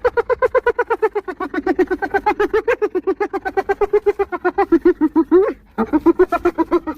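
Spotted hyena laughing: a fast, high-pitched giggle of short notes, about ten a second, breaking off briefly near the end before starting again.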